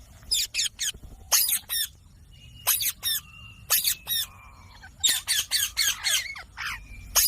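Indian ringneck parakeet (rose-ringed parakeet) giving shrill, harsh screeches in quick clusters of two to four, about once a second.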